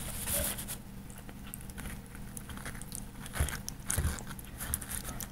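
A person biting and chewing food, with a few short mouth clicks about three and four seconds in.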